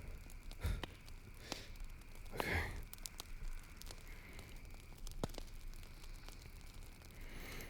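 A voice actor's close-miked drinking sounds as a vampire feeding on blood: soft breaths and wet mouth sounds with scattered small clicks. A quiet "okay" is spoken about two and a half seconds in.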